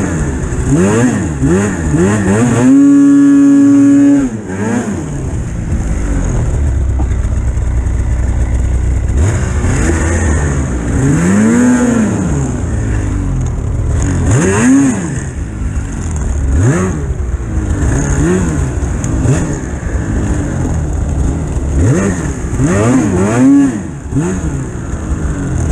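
Two-stroke Polaris Pro RMK 800 snowmobile engine being revved up and down over and over as it rides. Near the start it is held at a steady high rev for about a second and a half.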